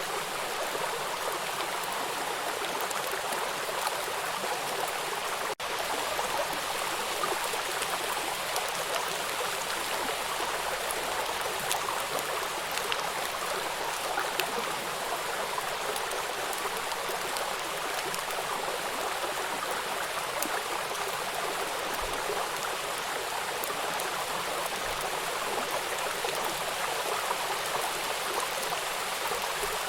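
Small river waterfall, water rushing steadily over rocks in an even hiss with fine splashing, and a momentary dropout about five and a half seconds in.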